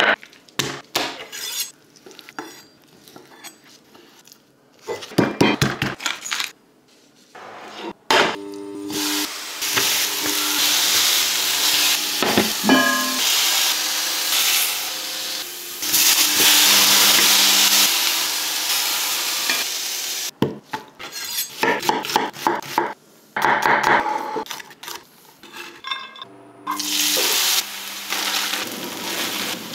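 Cooking sounds: a run of short clicks and knocks, then a steak searing with a loud steady sizzle in a hot cast-iron cocotte from about eight seconds in. Near the end, onions and tomato paste sizzle in a frying pan as a wooden spoon stirs them.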